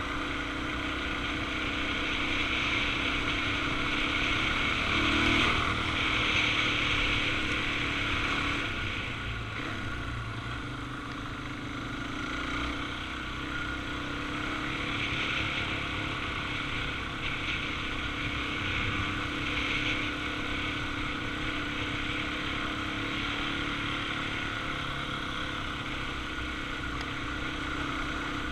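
Suzuki DR-Z400's single-cylinder four-stroke engine running steadily under way, with wind noise on the move.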